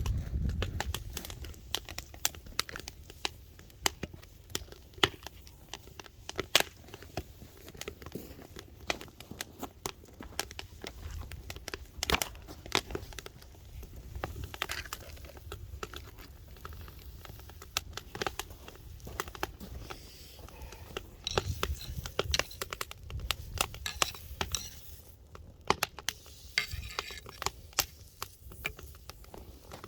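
Log firewood fire crackling, with irregular sharp pops and snaps throughout over a low rumble.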